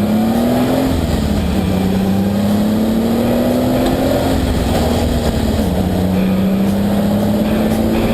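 1953 Ferrari 375 MM's V12 engine running hard. Its pitch climbs, drops suddenly about a second and a half in, climbs slowly again, and drops once more near six seconds.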